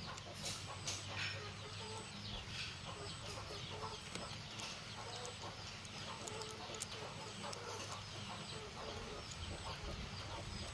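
Chickens clucking and chirping, many short calls overlapping throughout, over a steady low hum.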